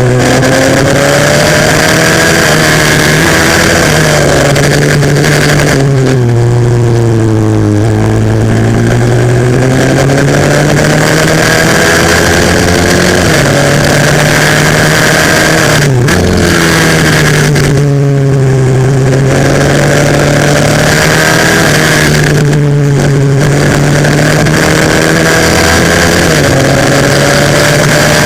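Single-cylinder four-stroke 140cc pit bike engine at racing revs, pitch climbing through the gears and dropping sharply under braking into corners several times.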